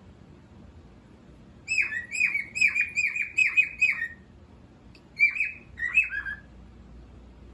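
Cockatiel calling: a quick run of about eight short chirps, each sliding down in pitch, then two more chirps after a short pause.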